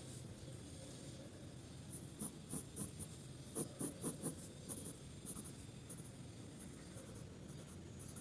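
Drawing strokes on paper: a run of short, quick scratches from about two to five seconds in, fainter strokes around them.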